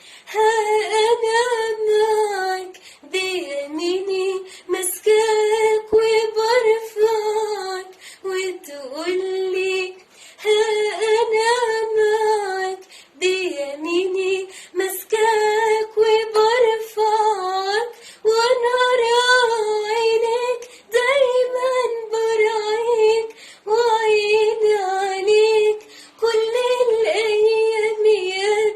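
A woman singing an Arabic Christian hymn solo and unaccompanied, in held, gently bending phrases a few seconds long with short breaks for breath between them.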